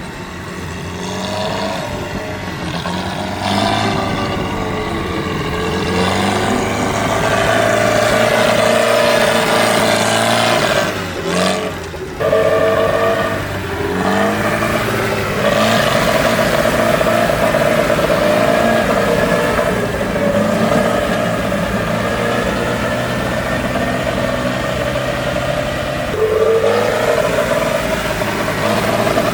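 Tractor engine running hard and revving, its pitch rising and falling several times, with a brief dip and pickup about eleven seconds in.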